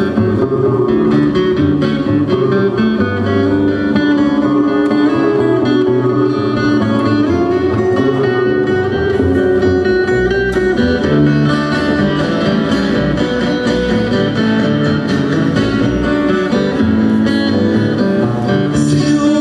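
Instrumental passage of acoustic guitar music, plucked and strummed, with steady low notes underneath and no singing.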